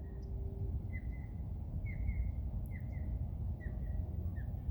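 Osprey calling a series of short, high whistled chirps, each slurring quickly downward, about one a second, over a steady low rumble.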